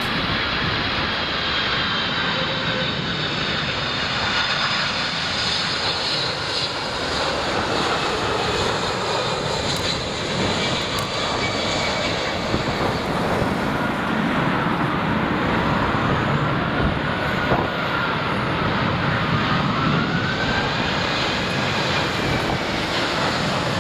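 United Boeing 767 twin-engined jet airliner coming in to land, its engines giving a steady, continuous rush with faint whining tones that slowly slide up and down in pitch.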